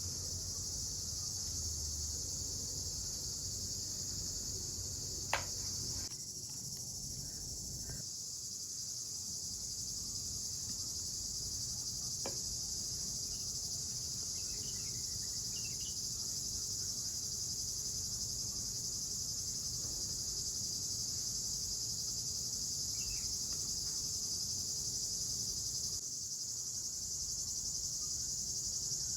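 Crickets chirping in a steady, continuous high-pitched chorus, with a single sharp click about five seconds in.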